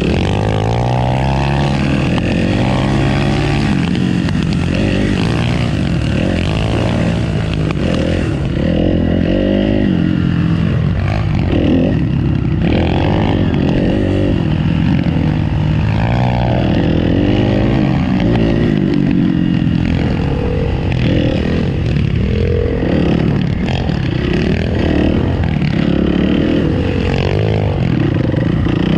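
Motorcycle engine running and revving up and down again and again, its pitch rising and falling every second or two.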